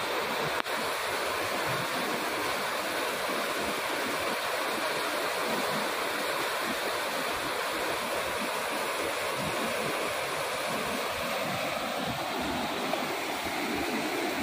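Steady rush of water from a large waterfall, an even noise without breaks. A brief click about half a second in.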